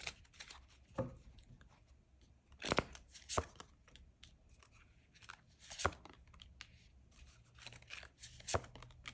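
Tarot cards being handled and laid down on a table: a few short, sharp card snaps and rustles, the loudest a bit under three seconds in, with quiet room tone between.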